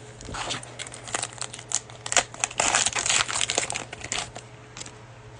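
Cellophane wrapper of a trading-card cello pack being torn open and crumpled: a run of sharp crinkles, densest from about two and a half to three and a half seconds in.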